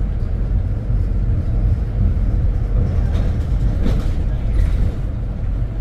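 Steady low rumble of a moving vehicle heard from inside the cabin: engine and road noise while driving, with a couple of faint ticks partway through.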